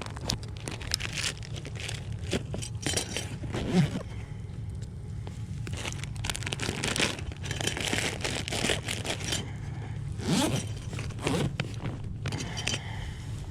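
Plastic food packaging rustling and crinkling, with irregular scrapes and light knocks of handling, over a steady low rumble.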